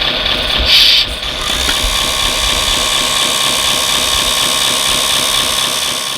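Steady mechanical whine of an RC construction model's electric motors and hydraulic pump, with a brief louder burst of hiss just under a second in.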